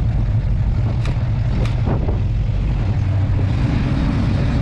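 A classic American car's engine running slowly with a steady low rumble. Two short, sharp sounds come a little over a second in.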